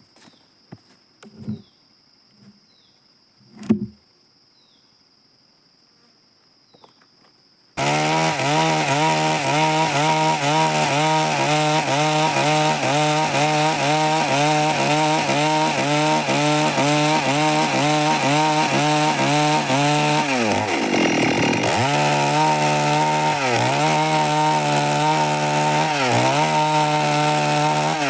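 A few faint knocks, then about eight seconds in a Stihl MS 382 two-stroke chainsaw at full throttle, cutting wood. Its pitch sags sharply once under load and twice more briefly, recovering each time.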